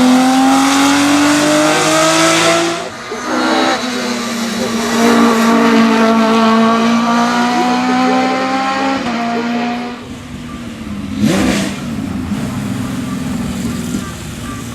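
Race car engine revving hard under full acceleration uphill, its pitch climbing and then dropping at upshifts about three and nine seconds in. It turns quieter after about ten seconds, with a brief sharp burst near eleven seconds.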